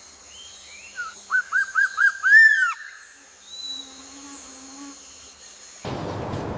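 A bird calling: a quick run of five or six short rise-and-fall notes, the last one longer and loudest, with a few fainter calls around it over a steady high hum. Near the end a steady rushing noise cuts in abruptly.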